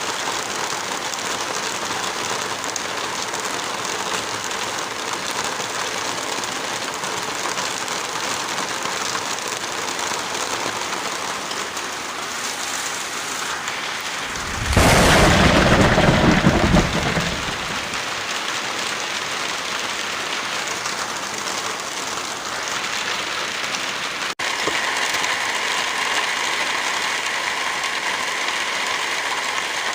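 Heavy rain falling steadily, with a loud rumble of thunder about halfway through that lasts a couple of seconds. Near the end the rain sound drops out for an instant and resumes with a slightly different, brighter hiss.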